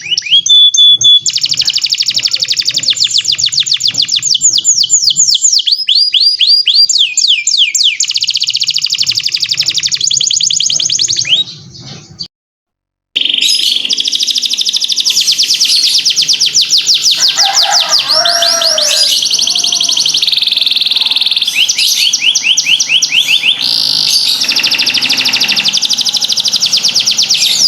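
Domestic canary singing in full song: long, fast trills of rapidly repeated high notes, one phrase straight after another. The song breaks off for about a second near the middle and then resumes.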